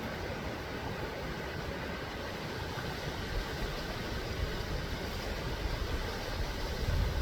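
Steady rushing noise of flowing creek water, with low rumbling bumps near the end.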